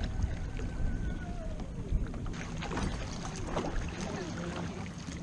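Kayak paddling: the paddle dipping and splashing, with scattered knocks, over a low steady rumble.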